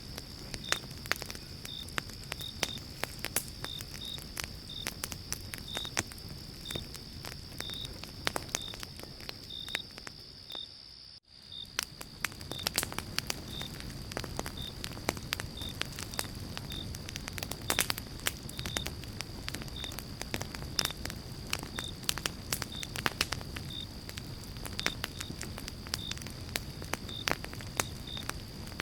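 Campfire of pine logs crackling, with frequent sharp pops. Behind it runs a steady high insect drone with short chirps about twice a second. The sound dips out briefly about eleven seconds in.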